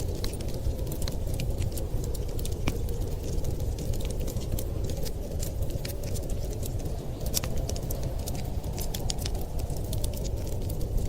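Wood fire crackling, with many small sharp pops and snaps at irregular intervals over a steady low rumble.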